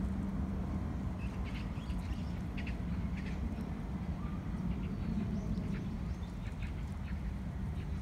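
Steady low outdoor rumble with scattered short, high bird chirps.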